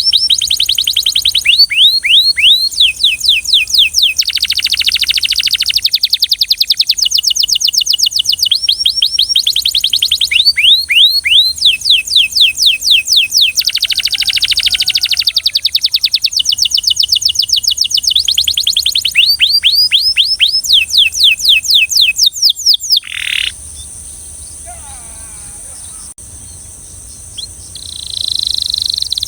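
Belgian canary singing in fast trills: long runs of rapidly repeated, downward-sweeping high notes, changing from one trill to the next. The song breaks off about three-quarters of the way through for a few seconds of quieter chirps, then starts again near the end.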